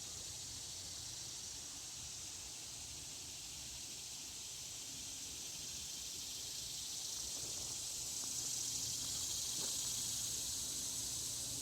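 Chorus of summer insects, a steady high-pitched hiss that swells louder in the last few seconds.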